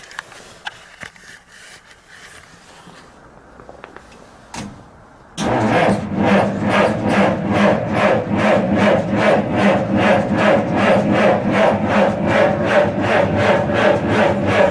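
1947 Dodge's flathead straight-six being cranked by its 6-volt starter on a cold start with full choke. After about five seconds of faint ticking, the starter engages suddenly and turns the engine over slowly and evenly, about four compression pulses a second, without it firing yet.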